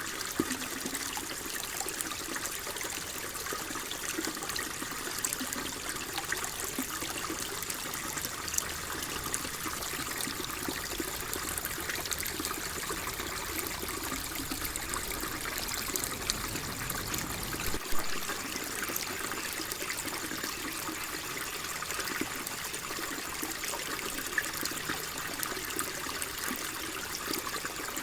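Flowing water trickling steadily, an even rush with many small splashes and droplet ticks. A faint low rumble underneath stops abruptly about two-thirds of the way through.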